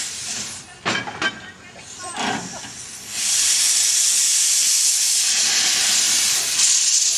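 Steam locomotive letting off steam: a loud, steady hiss that starts about three seconds in, after a quieter stretch with two sharp knocks.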